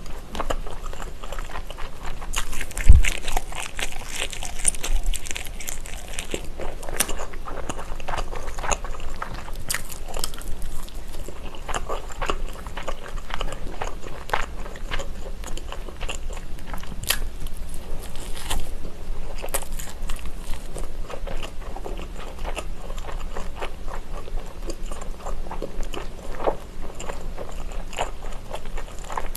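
Close-miked biting, crunching and chewing of a crispy fried food skewer coated in sauce, with many small crackles, and one low thump about three seconds in.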